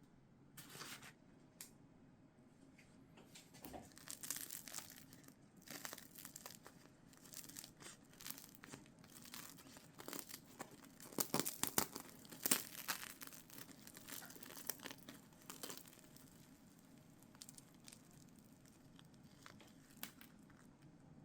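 Crinkly packaging being handled and rustled in irregular bursts, loudest and busiest about eleven to thirteen seconds in.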